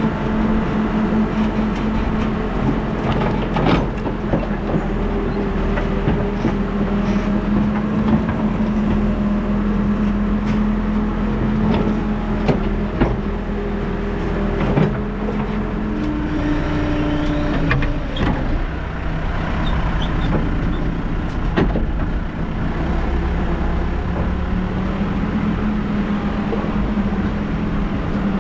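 New Holland backhoe loader's diesel engine running steadily under working load, with scattered sharp knocks and clanks. The engine note shifts briefly about two-thirds of the way through.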